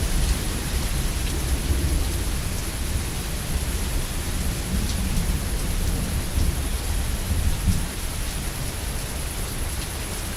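Steady heavy rain hissing, with scattered drops ticking, over a low rolling rumble of thunder that swells and eases a few times.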